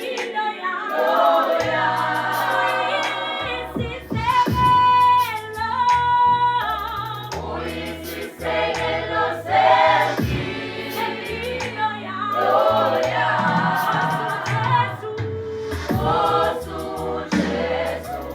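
Youth gospel choir singing in harmony, phrase after phrase, with a long held note near the middle.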